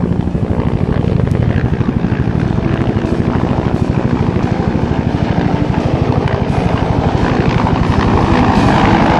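Bell AH-1W SuperCobra and UH-1 Huey helicopters flying past, their two-blade main rotors beating rapidly. The sound grows louder near the end.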